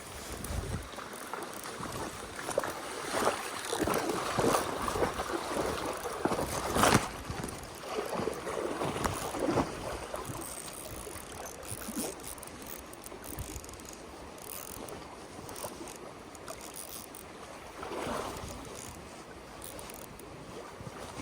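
Small mountain stream running, with irregular water splashing that is heaviest in the first half and has one sharp splash near the middle.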